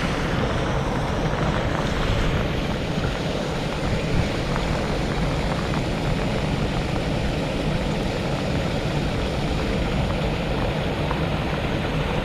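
Heavy rain falling, a steady hiss over a low rumble.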